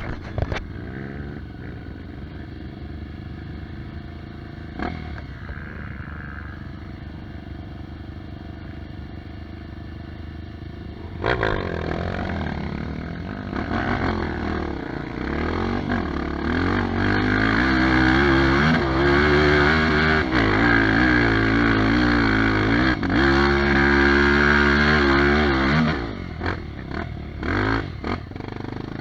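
Dirt bike engine running at low revs, then about eleven seconds in it gets louder and revs up and down repeatedly under load. It is loudest between about 17 and 26 seconds, then eases off.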